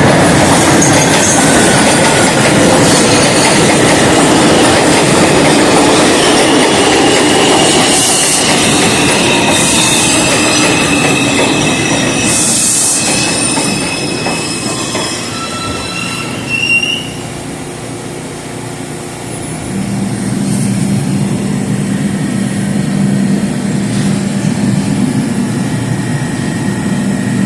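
R142 subway train running on the track with a loud rumble of wheels on rail and long, high-pitched wheel squeal in the middle; the noise dies down after about fifteen seconds, and a steady low hum follows.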